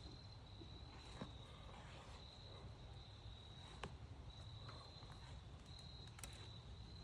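Faint insect trilling, crickets or similar, held at one high pitch with short breaks, and a few faint sharp clicks.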